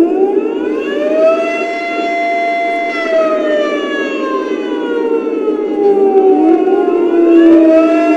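Air raid siren sound effect from a Lionel Legacy SD40-2 model locomotive's onboard sound system. It winds up and holds, falls away from about three seconds in, then winds up again near six seconds, over a steady low drone.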